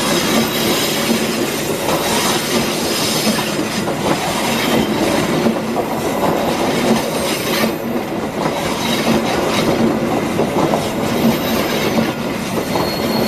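Passenger coaches of a train rolling past close by, the wheels clattering steadily over the rail joints, with some wheel squeal from the curving track.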